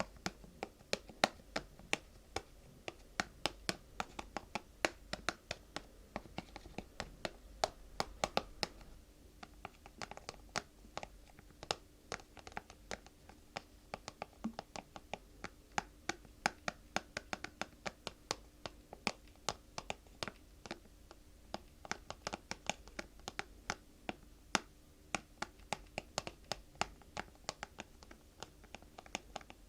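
Fingers tapping and scratching on objects: quick light taps, several a second, in an irregular run. A faint steady hum appears about nine seconds in.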